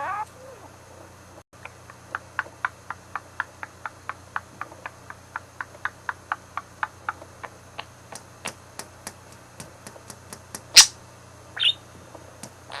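A quick, even series of sharp clicks, about four a second, for several seconds. Then comes a single louder click and a short budgie chirp near the end.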